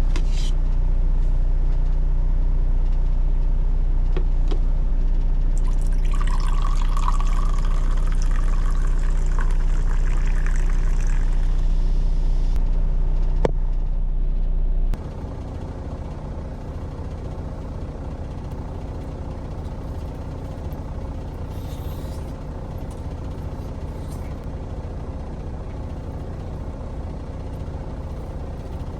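Steady low hum of an idling semi truck's diesel engine heard inside the cab. For about six seconds in the first half a rushing, hissy noise lies over it. About halfway through, the hum drops in level and changes pitch.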